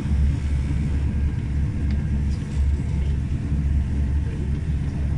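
Low, steady rumble of a moving passenger train heard from inside the carriage.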